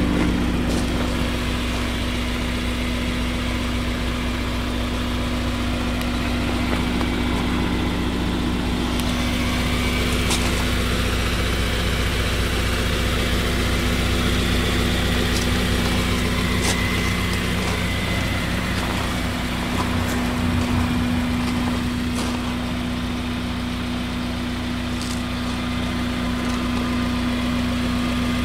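Ariel Atom 2's Honda four-cylinder engine idling steadily.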